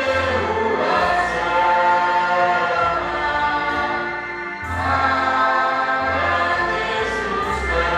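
A choir or congregation singing a Christian hymn in parts, over low sustained bass notes that change every few seconds.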